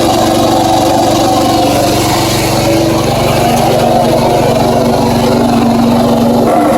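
Briggs and Stratton vertical-shaft lawn tractor engine running steadily, with a freshly fitted flywheel key replacing a sheared one that had thrown the timing off.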